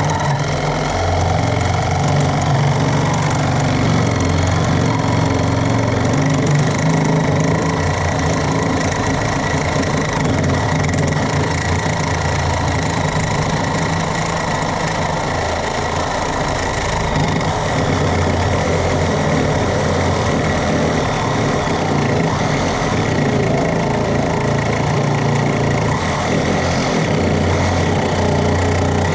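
Reciprocating saw (Sawzall) running steadily as it cuts through the welded-on steel bracket of an old battery box.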